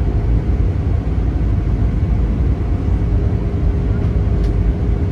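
Cabin noise inside an Airbus A320: a steady low rumble of engines and airflow, with a faint steady hum.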